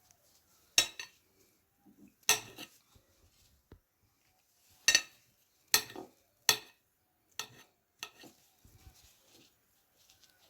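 Knife clinking against a plate while grilled chicken strips are sliced: about seven sharp strikes at uneven intervals.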